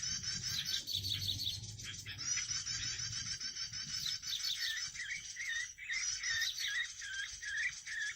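Small songbirds chirping and trilling in fast, repeated high phrases, the kind of call used to lure prinias (perenjak) in bird trapping. The chirping breaks off briefly twice.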